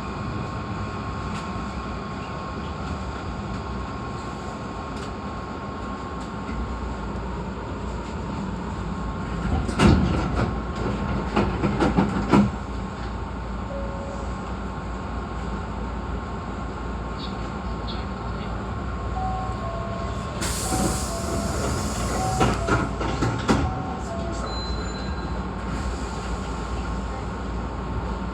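Hankyu 8300-series electric train heard from behind the driver's cab, with a steady running and motor noise. About ten seconds in comes a cluster of knocks, and around twenty seconds a short hiss with more knocks.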